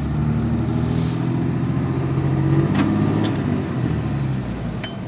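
2003 Dodge Ram 2500's 5.9-litre Cummins turbo diesel, straight-piped, running under way as the truck pulls out. The engine note holds steady, lifts a little about halfway, then eases off near the end.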